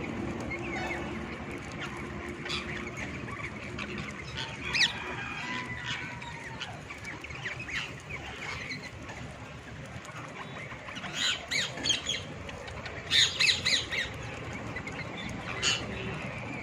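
Parrots squawking: scattered chirps, a single sharp squawk about a third of the way in, then two runs of loud, harsh squawks past the middle and one more near the end.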